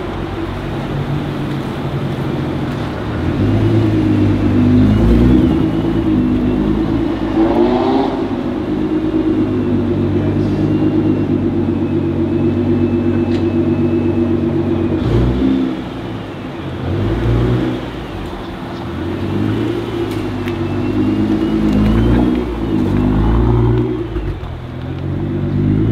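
Nissan GT-R R35's twin-turbo 3.8-litre V6 running at low revs as the car creeps along, the engine note swelling briefly a few times with light throttle.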